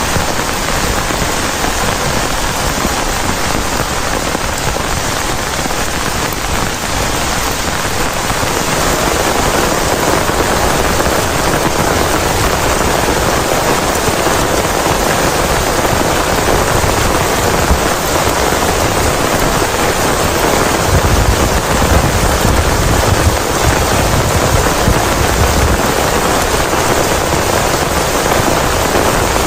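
Heavy rain falling steadily, growing heavier about eight seconds in, with a brief low rumble a little past two-thirds of the way through.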